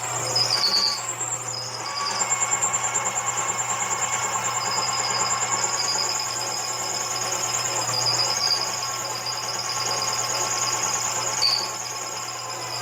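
Harbor Freight mini lathe running while a drill bit bores through the spinning workpiece. The bit gives a high, rapidly pulsing squeal over a steady motor hum.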